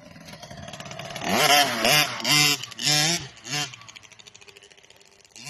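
Motocross dirt bike engine revving, its pitch rising and falling in four quick bursts about a second in, then fading away.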